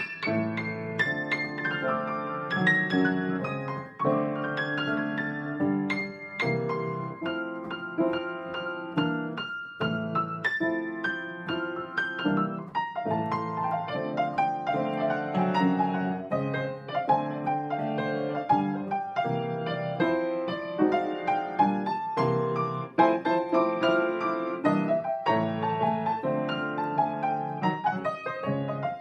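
Solo piano music, many notes played in a continuous flowing line.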